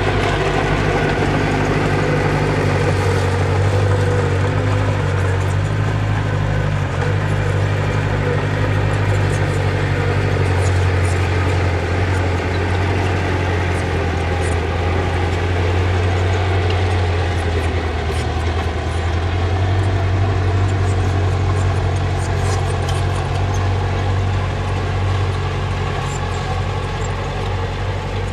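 Diesel engine of earthmoving machinery running steadily, its pitch shifting slightly a few times as the load changes, with faint small clicks over it.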